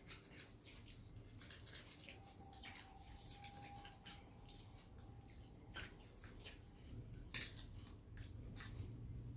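Faint eating sounds: soft, irregular clicks and wet mouth noises of chewing and of fingers working food on a plate, over a low steady hum.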